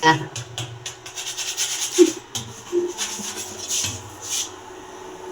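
Kitchen utensils scraping and rubbing in a string of short, irregular rasping strokes.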